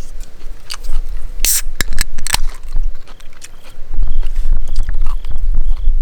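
Close-up eating sounds: a person chewing and crunching food, with sharp clicks and scrapes. From about halfway, a short high chirp repeats roughly twice a second.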